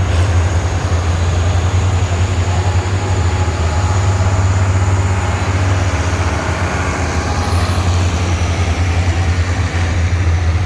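Antique tractor engine running with a steady low drone.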